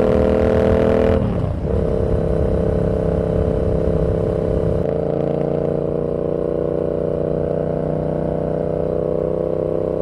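Yamaha XSR700's parallel-twin engine running through a Kelpi full shorty exhaust while riding. The note dips and breaks briefly about a second and a half in, then carries on steadily, falling slowly in pitch from about five seconds in.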